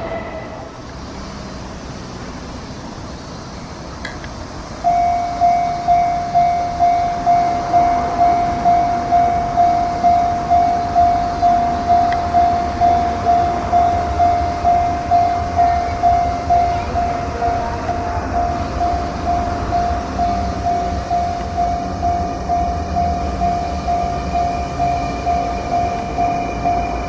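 Sotetsu electric train rumbling in to the platform, with an electronic warning bell pulsing steadily, about one and a half beats a second, starting about five seconds in and ringing over the train.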